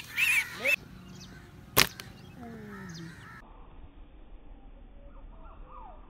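Harsh bird calls in the first second, a single sharp crack about two seconds in, then faint, short falling chirps of birds.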